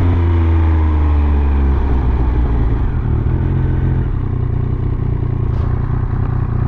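Triumph Speed Triple 1200 RS's inline three-cylinder engine, its note falling over the first couple of seconds as the bike slows, then running low and steady.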